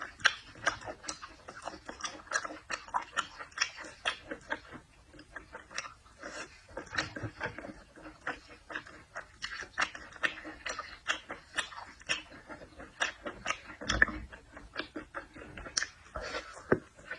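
Close-up eating sounds of a person chewing seafood: a rapid run of mouth smacks and chewing clicks, several a second, with a louder snap about fourteen seconds in.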